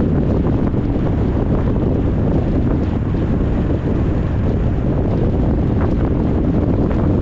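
Steady, loud wind rumble buffeting the microphone.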